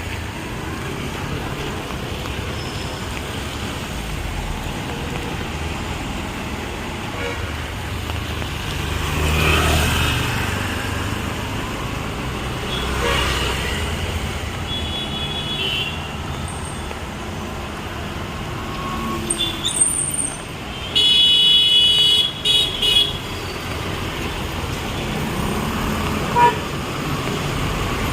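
Street traffic passing, with vehicle horns honking: short toots, then a loud horn held for about two seconds roughly three-quarters of the way through, followed by quick toots and one more short honk near the end.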